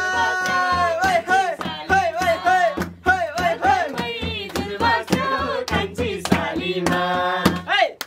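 Nepali folk song: voices singing a melodic passage without clear words, with hand claps keeping the beat.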